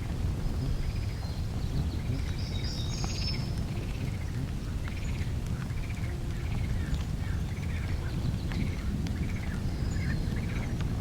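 A bird calling over and over, short rising-and-falling notes about once a second, with a few higher chirps about two seconds in, over a steady low rumble.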